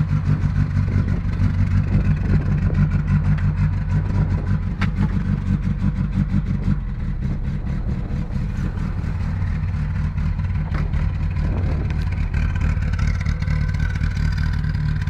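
VW Golf Mk1 1.5 four-cylinder engine running at idle while still warming up from a cold start, its beat uneven at first and settling steadier about halfway through.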